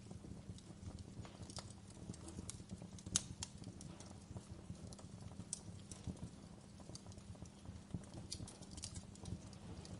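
Wood fire crackling: irregular pops and snaps over a low, steady rumble of the flames, with one sharper pop about three seconds in.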